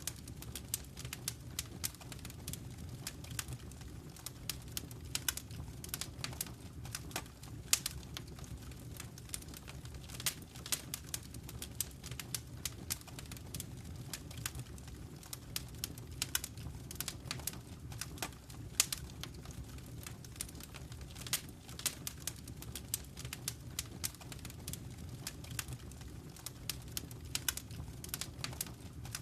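Wood fire crackling in a fireplace: irregular sharp pops and snaps, several a second, some louder than others, over a steady low rumble of the burning fire.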